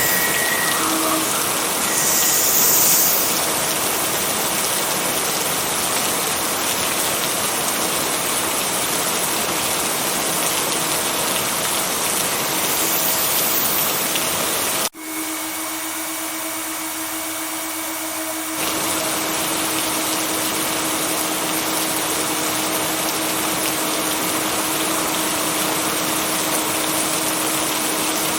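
Steady heavy rain, a dense even hiss, with a faint steady low hum under it. About halfway through it cuts out for an instant and comes back thinner, filling out again a few seconds later.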